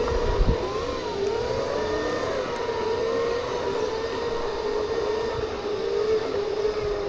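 Segway personal transporter's electric drive whining steadily, its pitch wavering a little as the speed changes. Low rumble, strongest about half a second in, runs underneath.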